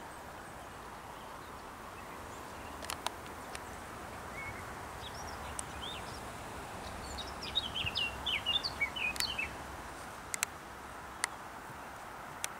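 A small bird chirps a quick run of short, high notes for a few seconds around the middle, over a steady outdoor background hiss. A few sharp clicks sound in between.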